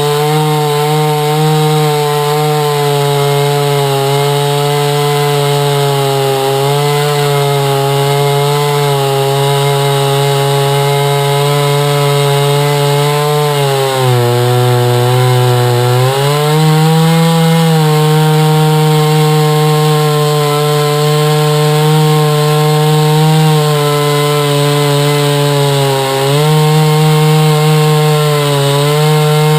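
Chainsaw mill running at full throttle while ripping a slab from a hard maple log, the engine's pitch steady under load. About halfway through, the pitch dips for a couple of seconds as the saw bogs in the cut and then picks back up, and it sags again right at the end.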